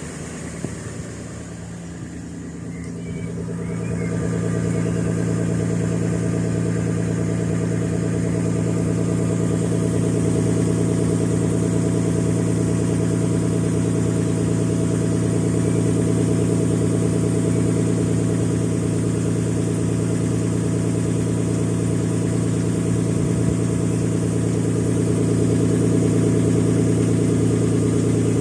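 Nissan Skyline R33's RB20E 2.0-litre straight-six idling steadily soon after a cold start. It grows louder about three seconds in, then holds an even idle.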